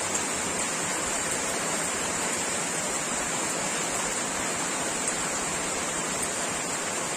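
Steady rain falling on clay-tiled roofs and trees, an even hiss.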